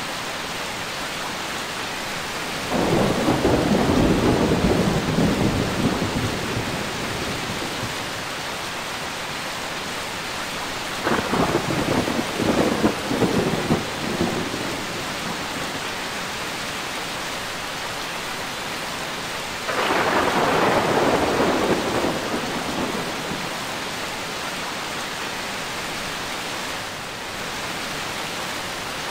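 Rain falling steadily, with three rolls of thunder: one a few seconds in, one about eleven seconds in, and one about twenty seconds in, each rumbling for a few seconds before fading back into the rain.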